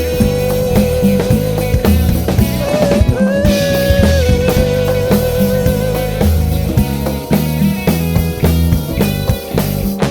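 Instrumental band music in a samba-funk groove: drum kit and electric bass under a lead instrument holding one long note, which bends up briefly about three seconds in.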